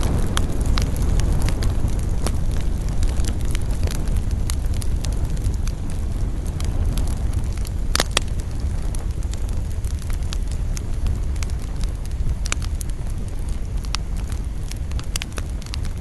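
Wood fire burning in a fireplace: a steady low rumble of flame with frequent irregular crackles and pops, one sharper pop about eight seconds in.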